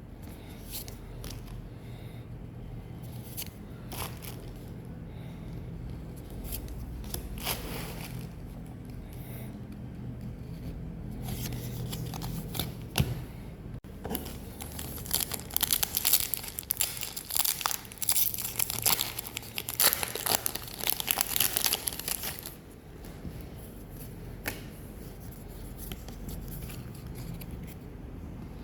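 Pokémon card booster-pack wrapper being torn open and crinkled, with scattered crackles and rustles at first. It becomes a dense, louder crinkling for about eight seconds in the middle, then settles back to occasional rustles.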